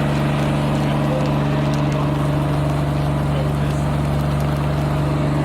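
Fire truck's engine running at a steady speed to drive the pump for its front-mounted water cannon, a constant drone that does not change.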